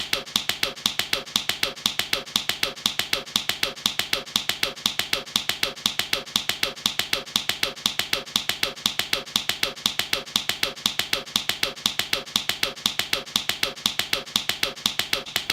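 Rapid, steady knocking on an expansion tank: even, sharp taps, each with a short hollow ring.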